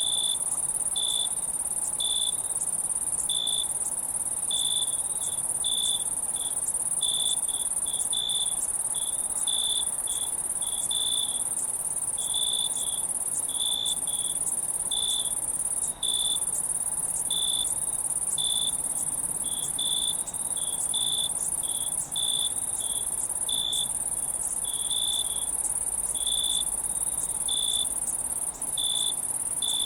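Crickets chirping: short chirps repeating irregularly, roughly one or two a second, over a steady high-pitched insect drone.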